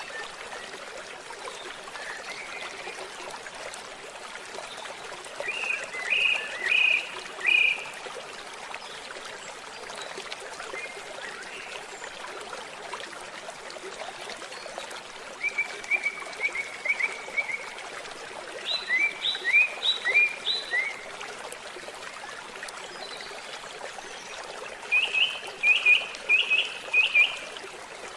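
A stream trickling steadily, with a songbird singing four short phrases of quick high notes over it.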